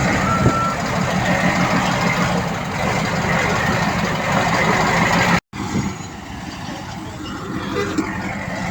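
Heavy diesel earthmoving machinery running, with a reversing alarm giving a last beep at the start. The sound cuts off abruptly about five and a half seconds in and resumes quieter.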